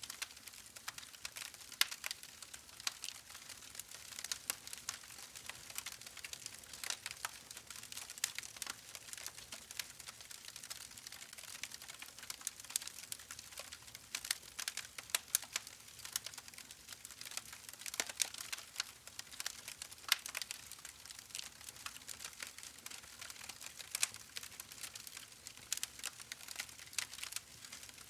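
Wood fire crackling in a fireplace: a steady stream of sharp, irregular pops and snaps over a soft hiss, with no low roar.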